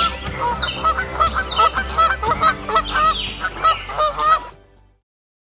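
A flock of migratory water birds calling, many short calls overlapping several times a second, fading out and stopping about four and a half seconds in.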